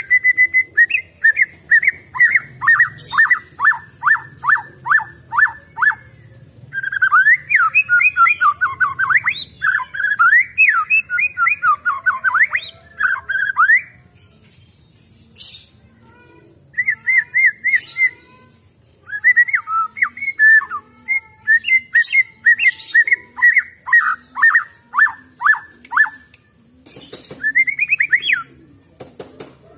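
White-rumped shama (murai batu) singing: phrases of fast repeated whistled notes and rising-and-falling trills, broken by short pauses.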